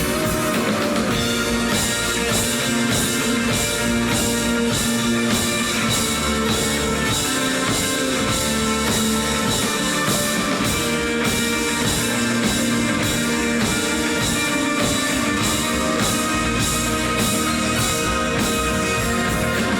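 Live rock band playing an instrumental break: guitars with a steady drum-kit beat and bass, with no vocals.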